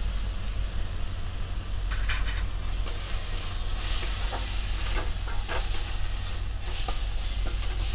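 Spiced tomato-onion masala frying in a steel kadai as a metal spatula stirs it, the sizzle swelling from about two seconds in, with a few short scrapes of the spatula on the pan. A steady low hum runs underneath.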